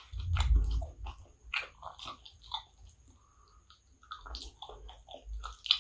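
Close-miked chewing and wet mouth smacks of a person eating kottu roti by hand, a string of short irregular clicks and smacks. A louder low thud comes within the first second.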